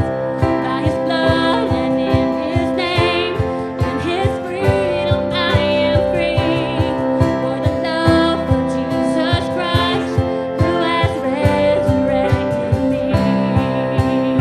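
Worship band music: guitar over sustained held chords with a steady beat.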